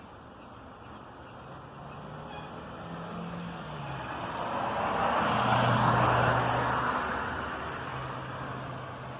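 A motor vehicle driving past: engine and tyre noise swelling to a peak about six seconds in, then fading away.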